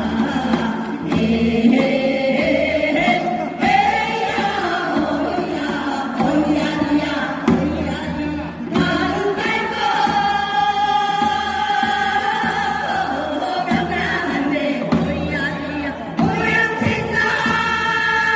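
A group of voices singing together in held, gliding notes over a musical accompaniment with a low beat.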